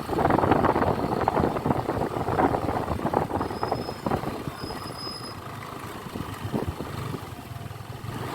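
Riding noise from a moving motorcycle: wind buffeting the microphone over engine and road noise. It is gusty and loudest in the first few seconds, then eases off as the bike slows.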